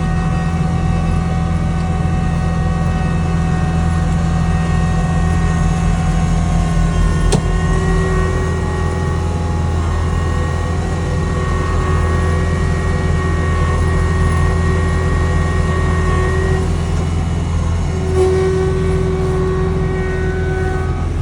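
Snow blower's engine running steadily under load while clearing deep snow, with a held whine whose pitch shifts now and then, and a single sharp click about seven seconds in.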